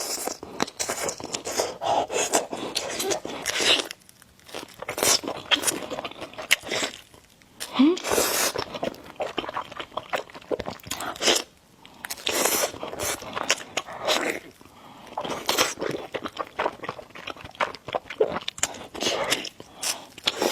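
Close-miked eating of noodles and eggs: irregular, dense chewing and biting clicks and wet mouth noises, broken by a few short pauses.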